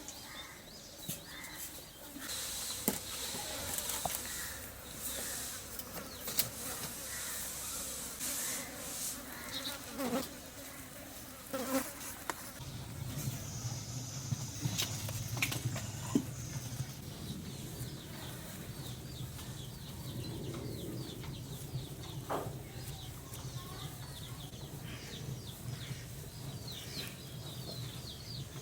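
A flying insect buzzing close by: a steady low drone sets in a little under halfway through and keeps going. Before it there are scattered light clicks and taps.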